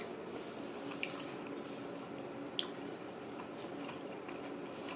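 A person eating a burrito bowl: quiet chewing, with two light clicks of a utensil against the bowl, over a faint steady room hum.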